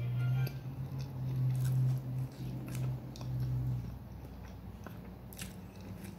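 Close-up chewing and mouth smacking of a person eating soft food with her fingers, with a few short clicking smacks as she sucks her fingertips. A low steady hum runs underneath and stops about two-thirds of the way through.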